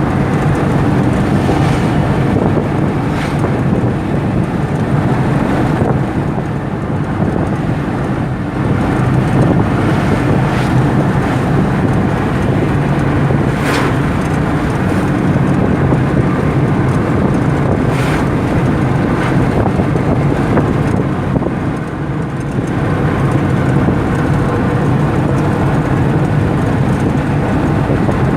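A car driving along a highway: steady road and engine rumble, with wind on the microphone and a few short sharp sounds around the middle.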